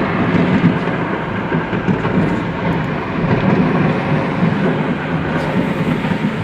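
Continuous rumbling and crackling of a stockpile of fireworks going off in a burning fireworks market.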